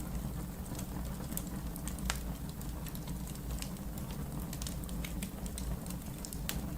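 Wood fire burning in a fireplace: scattered crackles and pops over a steady low rumble, with a sharper pop about two seconds in and another near the end.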